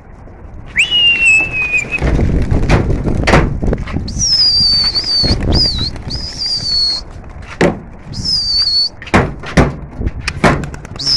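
A pigeon keeper's shrill whistling to put his pigeons up: a gliding whistle about a second in, then longer, higher, wavering whistles repeated several times, with sharp claps or knocks and a low rushing noise between them.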